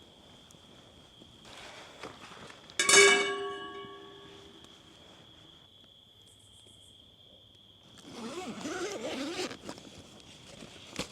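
A metal object is struck once about three seconds in and rings out, fading over about two seconds, over a steady high insect drone. Near the end comes a stretch of rustling and scraping.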